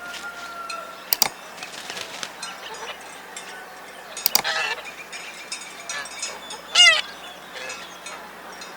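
Geese honking: two short honks, one about halfway through and another a couple of seconds later, with faint high chirps and a click between.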